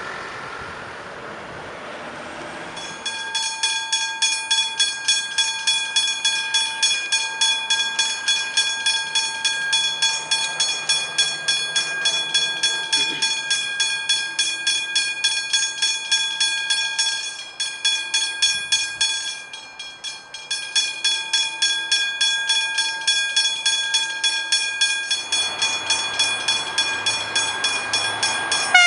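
Level crossing bell, a Westinghouse hybrid bell, starting about three seconds in and ringing with rapid, even strikes as the crossing activates, with a brief dip near the middle. Near the end a low rumble from an approaching train joins the bell.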